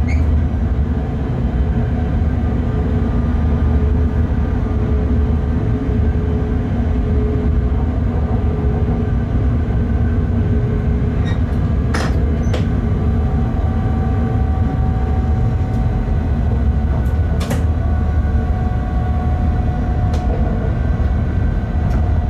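Cab noise of a Bombardier TRAXX BR 186 electric locomotive running along the line. A steady low rumble of wheels and drive carries faint humming tones, and two sharp clicks come about halfway through and again a few seconds later.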